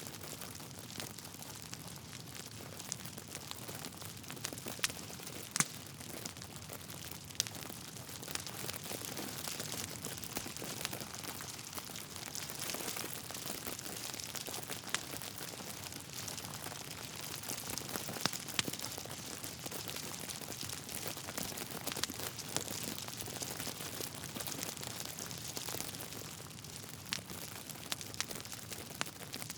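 Wood fire burning in a fireplace: a steady hiss with frequent small crackles and a few louder pops of the burning logs.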